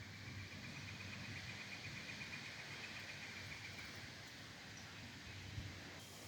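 A songbird singing a faint, rapid trill on one even pitch, lasting about four seconds.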